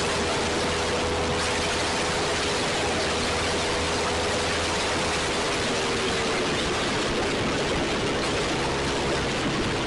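Single-cylinder Kawasaki Ninja Mono motorcycle with an SC-Project exhaust running at a steady engine speed under heavy wind rush on the microphone; the engine's tone eases slightly lower about two-thirds of the way through.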